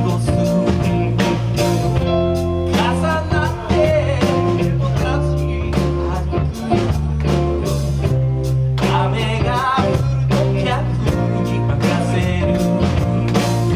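Live band playing a soul song, with steady bass notes under regular drum hits and a wavering melody line on top.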